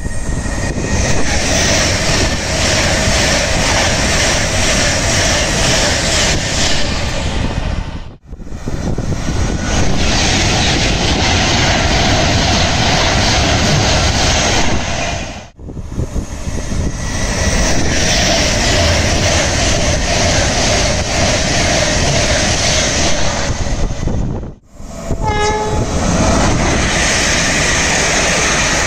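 Electric passenger trains passing through a station at speed, a steady loud rush of wheels on rail with some steady tones mixed in. Each pass is cut short by a sudden break before the next one begins, three breaks in all. The trains include Class 390 Pendolino units and a Class 350 multiple unit.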